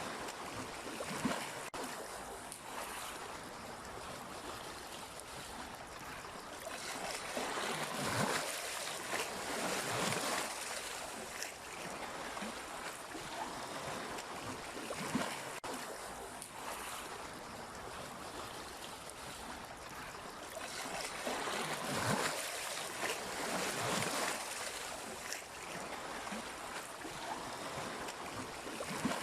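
Sea waves washing and splashing steadily, swelling louder about eight seconds in and again past twenty seconds, then easing back.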